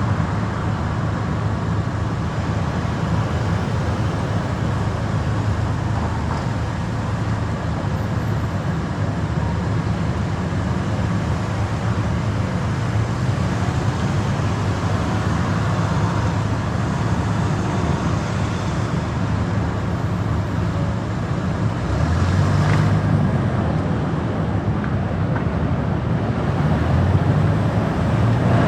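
Car driving through city traffic: steady engine and tyre road noise, with a brief louder swell of passing traffic a little over three-quarters of the way through and the noise building near the end.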